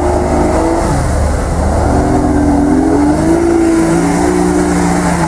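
Jeep Cherokee engine revving under load as it pushes through deep water and mud, its pitch dropping about a second in and climbing again over the next couple of seconds.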